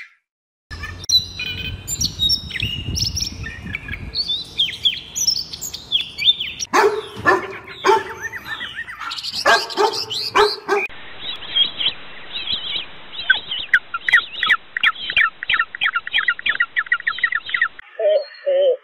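Birds chirping and tweeting in many short, varied calls, turning in the second half into a long run of rapid repeated chirps; a low rumble sits under the first few seconds.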